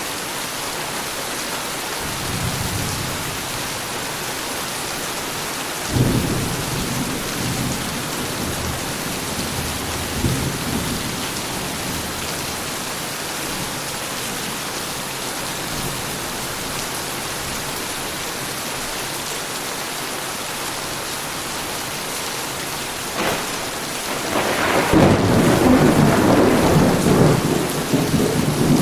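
Heavy rain falling steadily, with thunder. A rumble starts sharply about six seconds in and rolls on for several seconds. A louder, longer rumble comes near the end.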